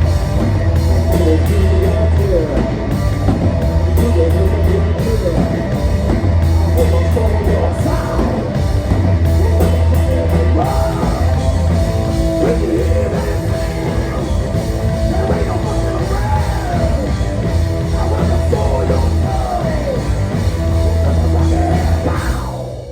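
Loud live rock band playing: drum kit, heavy bass and electric guitar, with a lead line of bending, wavering notes. The song stops abruptly just before the end.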